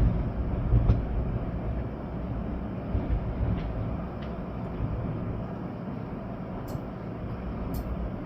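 Storm wind and rain: a steady rushing haze with low, rumbling gusts that swell and ease, and a few faint sharp ticks.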